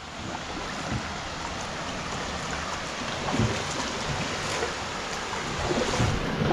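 Steady rush of creek water around a kayak, with a few faint splashes or knocks scattered through it.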